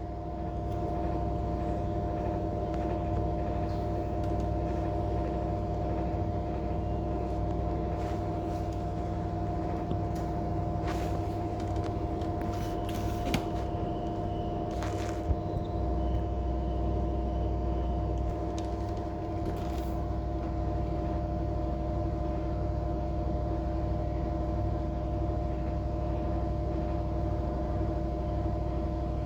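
Air conditioner running with a steady hum, with a few brief clicks about halfway through.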